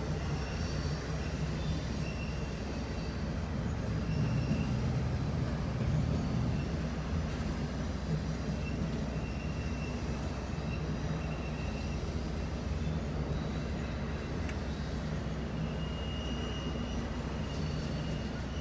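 Freight train cars rolling past close by, heard from inside a car: a steady low rumble with short, faint, high wheel squeals every second or two.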